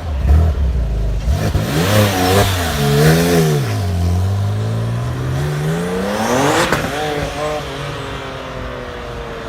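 A sports car's engine revved twice in quick blips, then accelerating hard, its pitch climbing steadily to a peak about two-thirds of the way in and then falling away as the car goes past.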